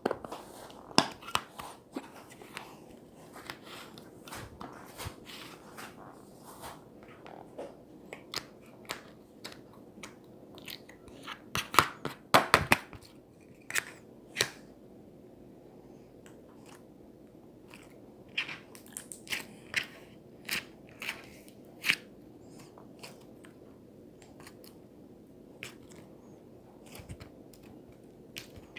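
Crunchy chewing and biting: irregular sharp crunches in clusters, with quieter pauses between them.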